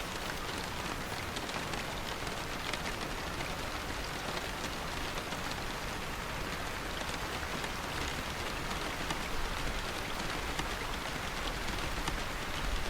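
Steady rain falling, with scattered individual drops ticking over an even hiss.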